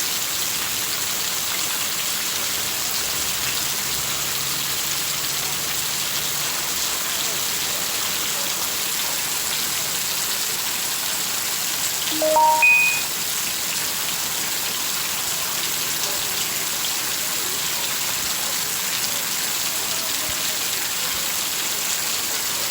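Heavy rain falling steadily, a constant hiss. A little past halfway, a brief run of short tones rising in pitch stands out over it for under a second.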